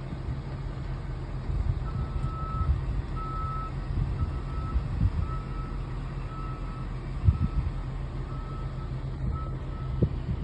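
Ford F650 chipper truck's engine running with a steady low rumble while a reversing alarm beeps, about one beep a second, starting about two seconds in.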